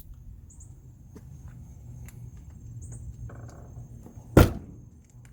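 A single loud thump about four and a half seconds in, over a low steady hum, with a few faint high chirps.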